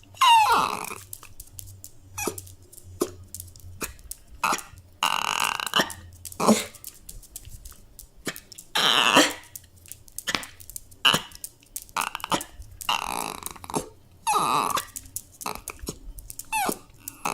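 A dog whining and crying: pitched whines that fall in pitch near the start and near the end, with several longer, rougher cries of about a second each and short sharp sounds between them.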